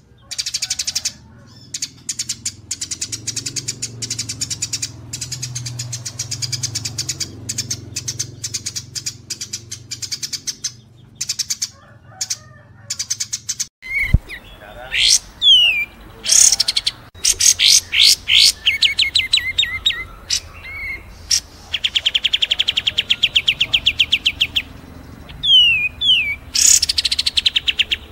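Recorded songbird song: a fast, dense, chattering run of high chirps for about the first half, over a low hum. About halfway in it cuts abruptly to another bird giving sharp downward-sliding whistles and quick trills.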